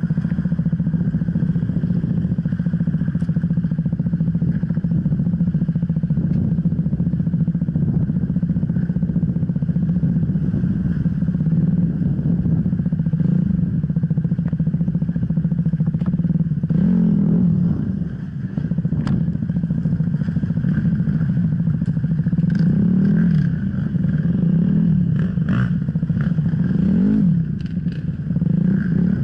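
Off-road enduro motorcycle engine running steadily, then revved up and down repeatedly from about halfway, with scattered clicks and knocks.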